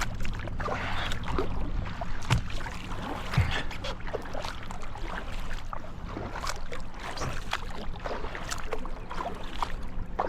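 Kayak being paddled: water splashing from the paddle strokes, with irregular small knocks and splashes over a steady low rumble.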